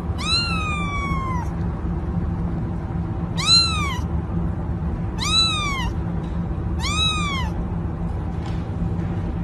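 Cat meowing four times: a longer, drawn-out meow first, then three shorter ones about every second and a half, each rising then falling in pitch, over a steady low rumble.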